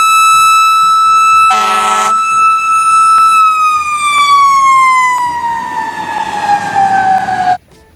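Fire-truck siren sound, likely from the toy fire truck. It holds one loud steady pitch for about three seconds, then slowly winds down in pitch before cutting off suddenly near the end. A short buzzy horn blast sounds about a second and a half in.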